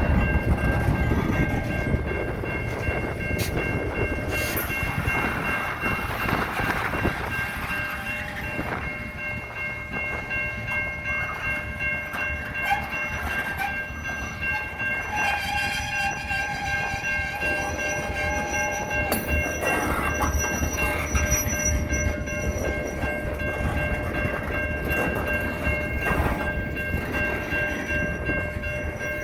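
Strong wind blowing in gusts, a steady low rumble with high whistling tones held throughout.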